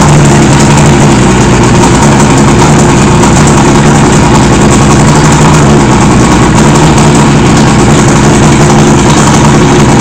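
1976 Johnson 85 hp V4 two-stroke outboard motor idling steadily and very loud, running without a choke solenoid; the owner asks whether this idle is rough.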